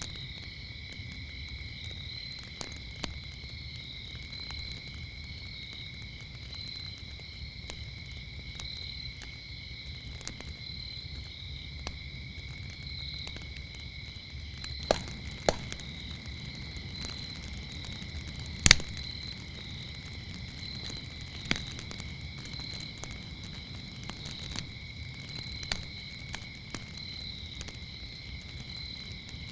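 Crickets chirping in a continuous high, pulsing chorus over the low rumble of a wood fire. The fire gives occasional sharp crackles and pops, with the loudest pop about two-thirds of the way through.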